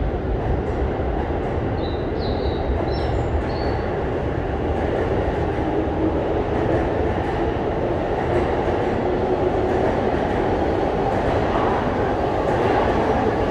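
A train running out of sight in the station makes a steady rumble of wheels on rails that grows slightly louder toward the end, with a few brief high squeaks about two to three seconds in.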